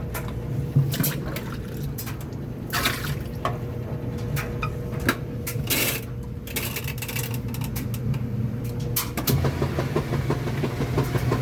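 Kenmore washing machine running with water splashing and sloshing inside the tub and scattered clicks. About nine seconds in, its motor hum grows louder with a fast pulsing as the drum starts to spin.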